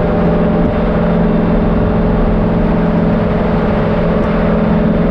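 Car engine running at a steady pitch: a loud, constant drone.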